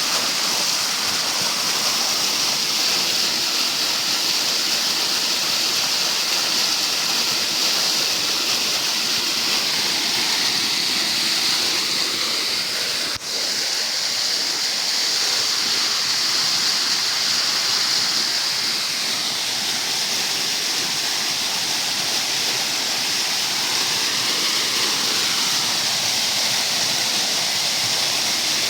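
Waterfall running: a steady rush of falling water, with a momentary dip in level about halfway through.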